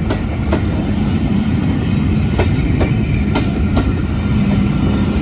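Train of coaches running past close by, its wheels clacking over the rail joints at irregular intervals over a steady rumble and hum.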